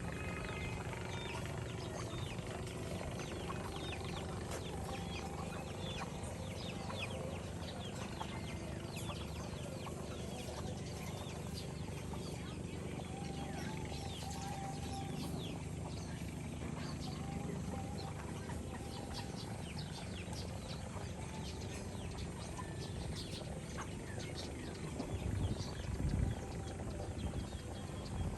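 Chickens clucking, with many short high chirps scattered throughout, over a steady low rumble; a couple of louder low thumps come near the end.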